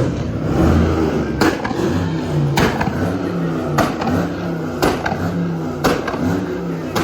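A car engine revving hard, with a sharp crack about once a second.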